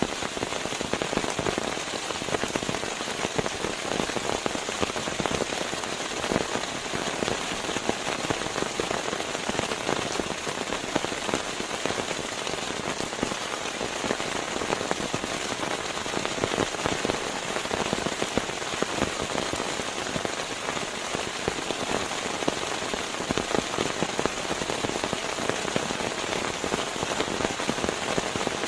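Steady rain falling on a surface: a dense, even patter of many small drops.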